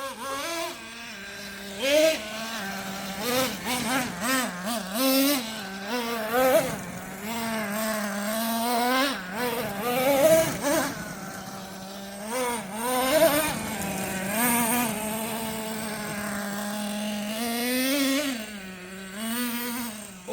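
Traxxas T-Maxx 3.3 nitro RC monster truck's small two-stroke glow engine running, idling steadily and then revving up and down over and over, its pitch rising and falling.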